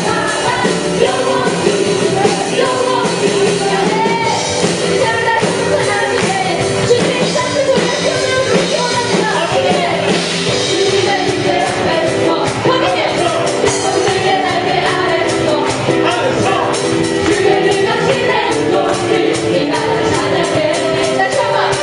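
Live contemporary worship music: a praise band playing, with voices singing over it, steady and loud.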